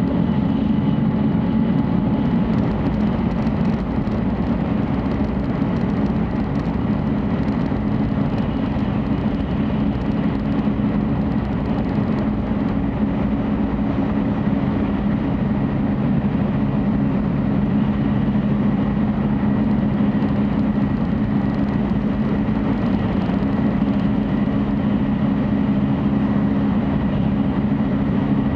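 Steady running noise inside the passenger cabin of a 700 series Shinkansen at speed: a constant low rumble with a faint, steady high tone above it.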